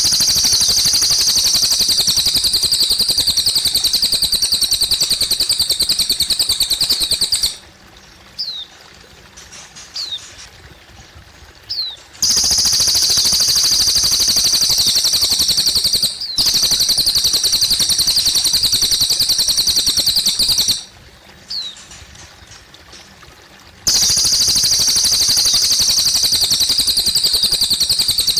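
Cililin bird singing long, high, rapid trills of about four to eight seconds each, four in all, with short pauses between them filled by single brief chirps. Water trickles faintly underneath.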